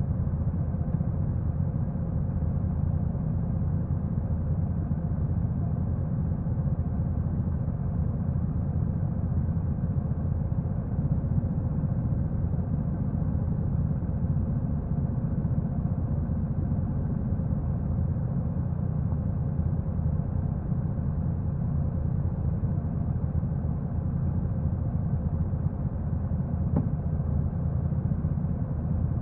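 Honda NC750X's parallel-twin engine running steadily, a low even rumble with no revving.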